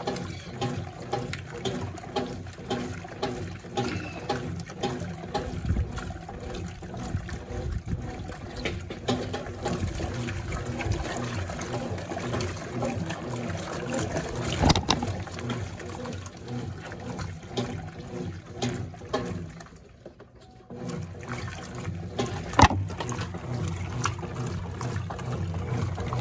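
Consul Facilite 11.5 kg top-load washing machine agitating its load in water: water sloshing over a steady motor hum. The sound drops out briefly about twenty seconds in, and there are two sharp knocks, one near the middle and one soon after the pause.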